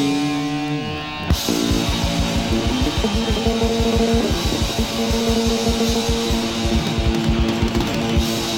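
Live punk rock band playing an instrumental passage with electric guitar, bass and drums. A chord rings out for about a second, then the drums come back in with a fast, steady beat under sustained guitar notes.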